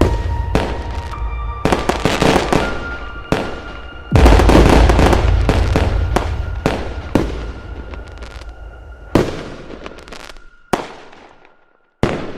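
Fireworks shells bursting with crackling tails, about ten bangs in all, mixed with cinematic music holding long notes. The bursts and music thin out and fade over the last few seconds.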